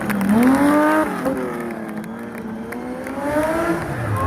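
Ford Escort Mk2 rally car's engine revving hard under acceleration. The pitch climbs, drops sharply at a gear change about a second in, then climbs again through the next gear before falling near the end.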